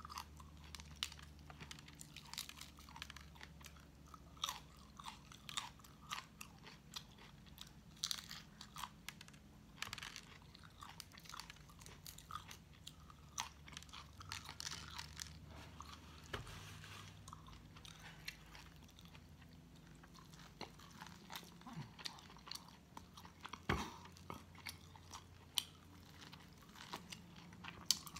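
Close-miked eating: irregular sharp crunches and bites between quieter chewing.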